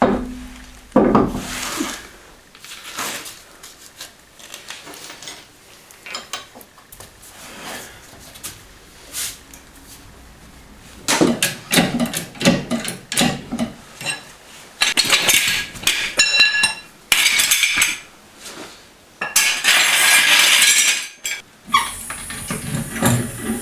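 Metal workshop gear clinking and clanking: scattered knocks, a busy clatter in the second half with one ringing metallic strike, and a longer scraping rush near the end.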